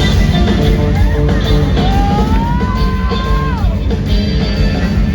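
Rock band playing live through a concert PA, with drums, bass and a sustained lead guitar line that bends up and then slides down, heard loud and roomy as in an indoor arena.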